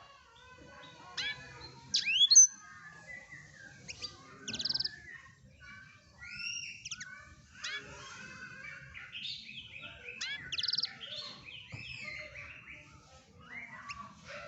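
Blackthroat (black-throated canary) singing a long, continuous song of quick, varied twittering phrases, with sliding whistles and short buzzy trills.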